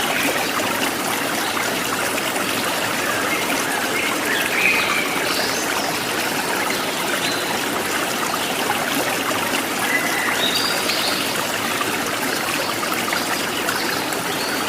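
Steady rush of flowing stream water, with a few short wild bird chirps scattered over it.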